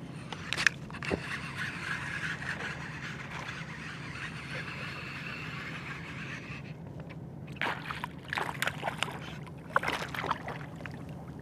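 Shallow water sloshing and splashing around a person wading, in short bursts from about two-thirds of the way in, over a steady low hum.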